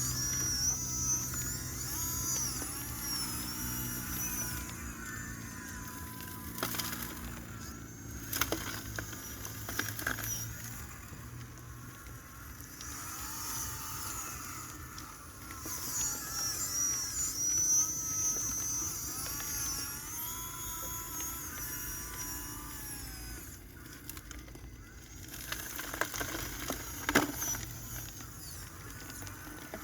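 High-pitched whine of small electric motors, rising and falling in pitch as they speed up and slow down, over a low steady hum, with occasional sharp knocks, the loudest near the end.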